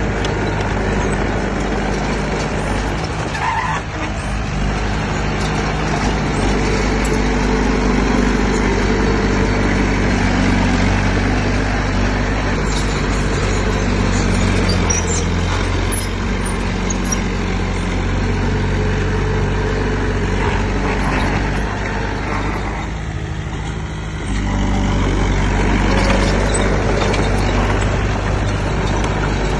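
Heavy diesel engine of construction machinery running steadily, its note shifting with load. It drops away briefly about 23 seconds in, then comes back up.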